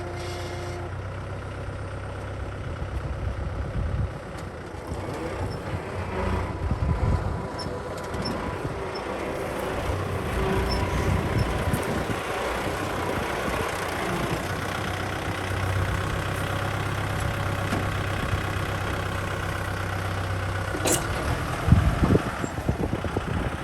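Kubota M6040 SU tractor's diesel engine running steadily, with a sharp click and a couple of heavier thumps near the end.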